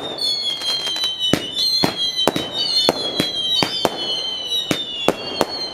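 Fireworks display going off in rapid, irregular bangs, about two or three a second. High whistling tones hang over the bangs and slowly drop in pitch.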